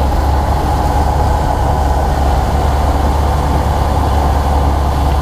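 Motorboat engine running steadily, a loud, constant low drone.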